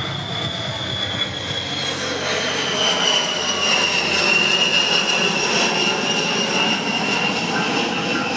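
B-52 Stratofortress's eight jet engines during a flypast: a loud rush of jet noise with a high whine that slowly drops in pitch as the bomber passes, swelling to its loudest around the middle.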